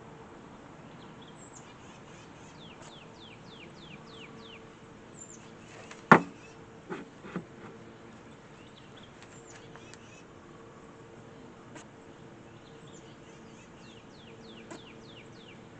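A bird singing a run of quick down-slurred whistled notes, twice. A sharp knock about six seconds in, the loudest sound, is followed by two lighter knocks.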